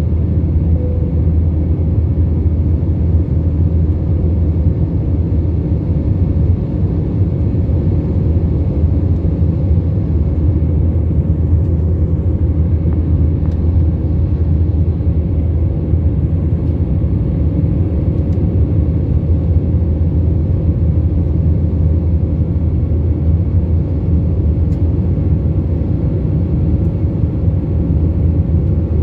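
Steady cabin noise of an Airbus A321 jet airliner in flight: a loud, even low rumble of engines and airflow heard from inside the passenger cabin.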